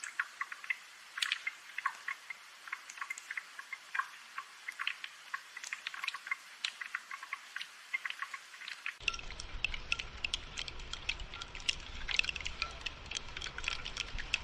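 Steady rainfall: a dense, irregular patter of raindrops, many single drops ticking close by over a soft hiss.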